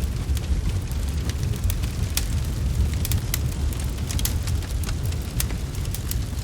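Wood fire crackling, with frequent sharp irregular pops over a steady low rumble.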